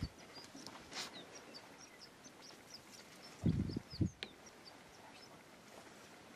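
Small birds calling in the dawn chorus: a string of short, high chirps repeating rapidly. Two low, muffled sounds stand out about three and a half and four seconds in.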